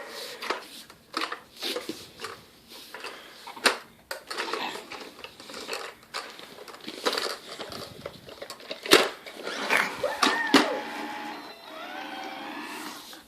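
A young child babbling and squealing, with sharp knocks and clatters of a toy car being handled.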